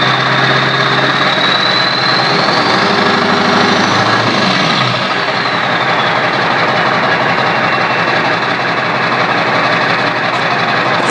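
Turbocharged engine running with its turbo open to the air, not hooked up to an intake, and a 4-inch straight-pipe exhaust. The engine is blipped once about three seconds in, and the high turbo whine climbs in pitch and then slides back down over the next few seconds.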